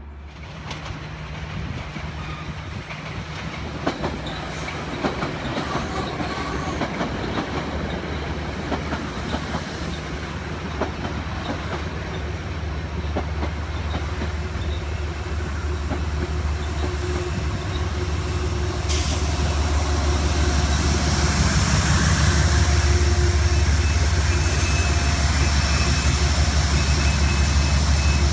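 Metro-North passenger train rolling through on steel wheels, with repeated clicking as the wheels cross rail joints. The train grows louder, and in the second half the locomotive's low, steady engine hum comes up strongly as it draws level.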